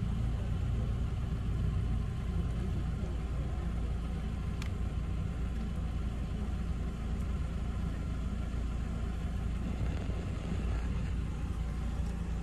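Car engine idling with a steady low rumble, and a single sharp click about four and a half seconds in.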